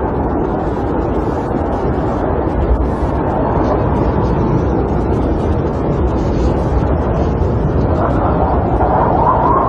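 Snowstorm wind blowing steadily against a camper, heard from inside, with a stronger gust near the end.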